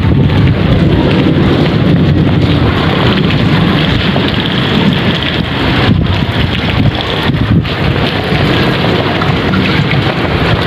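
Rain with wind buffeting the microphone: a loud, steady rushing noise with a low rumble.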